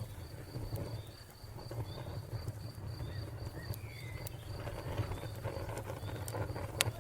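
Wood fire crackling with scattered pops over a low rumble, one sharper pop near the end. Crickets chirp steadily at about four chirps a second, and a bird gives a brief falling call a little past the middle.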